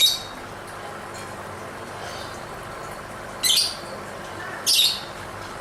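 Lovebird giving short, shrill, high-pitched calls: one right at the start, then two more about a second apart near the end.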